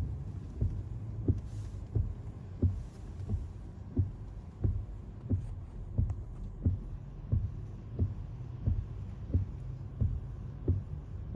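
Soft low thumps repeating evenly, about one and a half a second, over a steady low hum.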